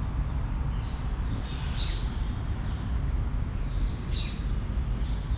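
Birds calling outdoors, short high calls about two seconds in and again about four seconds in, over a steady low background rumble.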